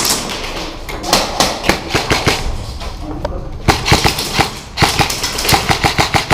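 Airsoft guns firing in rapid strings of sharp shots, growing denser about halfway through.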